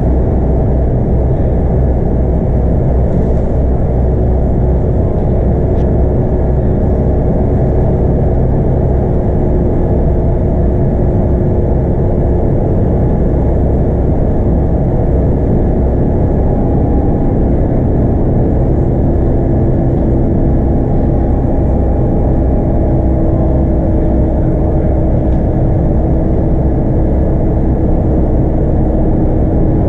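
Scania K230UB bus under way, heard on board: its 8.9-litre five-cylinder Scania DC9 diesel and ZF Ecomat six-speed automatic give a steady, loud drone mixed with road noise. A faint whine above the drone slowly shifts in pitch.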